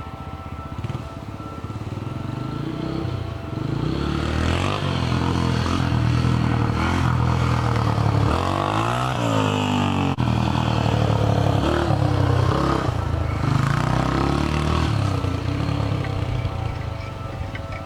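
2000 Yamaha TTR125's single-cylinder four-stroke engine revving up and down while being ridden, loud through an exhaust opened up with the washer mod. About eight seconds in the pitch drops away and then climbs again.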